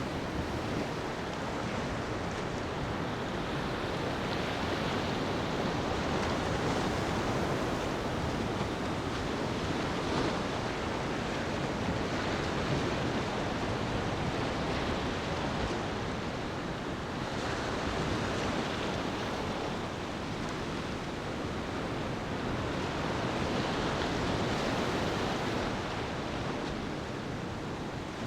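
Ocean waves washing onto a beach, a steady surf hiss that swells and eases every few seconds.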